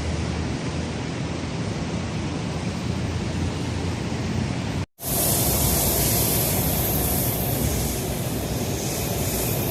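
Steady rushing noise of an electric metro train running. It cuts off for an instant about halfway and comes back with more hiss.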